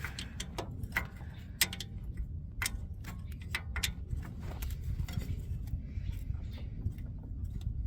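Ratchet on a long extension and swivel socket clicking in short irregular runs as the starter's mounting stud is backed out, over a low steady rumble.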